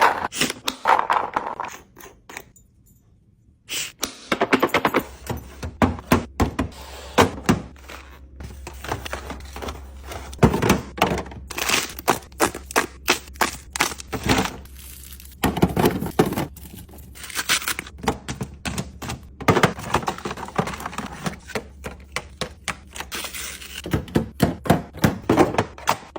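Quick runs of sharp clicks, taps and knocks from household kitchen items being handled, in a small room. There is a short pause about two seconds in, and a low steady hum starts about five seconds in.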